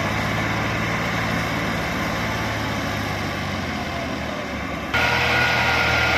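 Massey Ferguson 240 tractor's diesel engine running steadily. About five seconds in, the sound jumps suddenly louder, with a high whine added over the engine.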